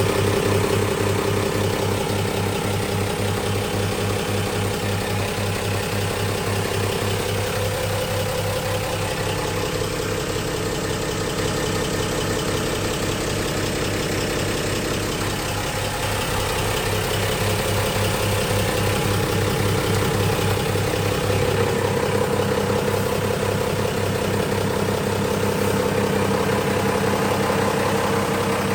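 Mercedes-Benz Unimog SEE tractor's diesel engine idling steadily.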